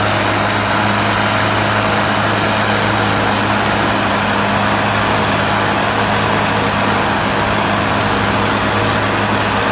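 Diesel tractor engine running steadily at a constant speed, a loud, unchanging drone.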